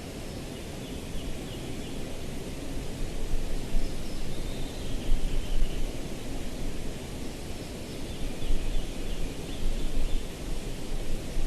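Outdoor nature ambience: a rumbling low noise that grows louder a few seconds in, with faint, short high-pitched bird or insect calls over it.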